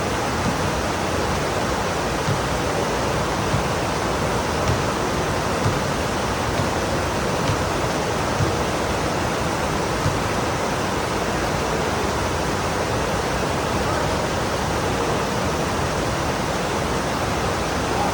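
Heavy rain pouring steadily: a dense, even hiss with a few brief louder taps.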